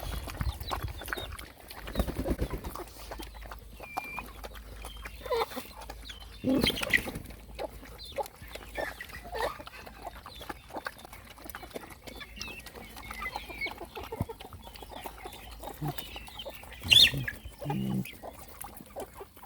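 Dogs and puppies feeding, with scattered short high-pitched animal calls and small knocks. The loudest call comes about three-quarters of the way through.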